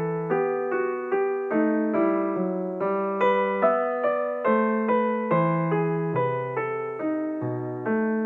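Background piano music: a gentle, evenly paced melody over sustained chords, about two to three notes a second.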